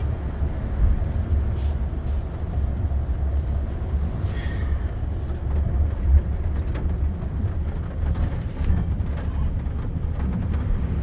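Car driving, a steady low rumble of engine and tyres heard from inside the cabin, with a brief faint higher sound about four and a half seconds in.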